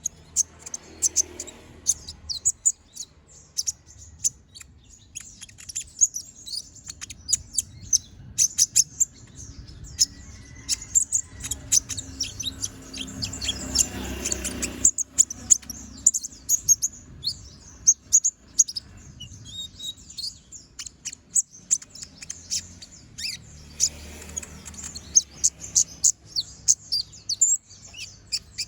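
Kolibri ninja (konin), a caged sunbird, singing non-stop in a rapid run of sharp, high-pitched chirps and trills.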